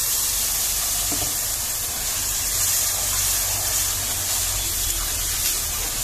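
Tomato, ginger and garlic paste sizzling in hot oil over fried onions as it is poured into a kadai and stirred with a ladle: a steady, loud spitting hiss.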